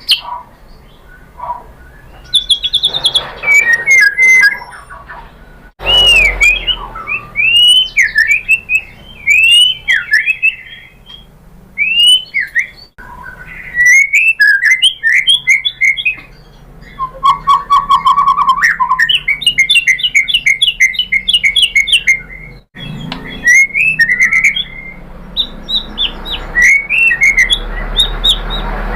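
White-rumped shama (murai batu) singing in full song: loud rising and falling whistles, rapid chattering runs and a short low trill in the middle, broken off abruptly a few times.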